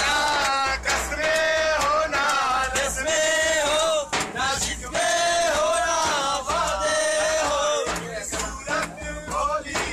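Men singing a song together, accompanied by sharp strokes on a dhapli hand frame drum.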